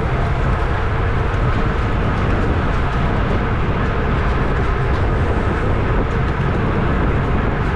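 Steady wind rush and road noise on the camera microphone of a road bike riding at racing speed, heard as an even low roar.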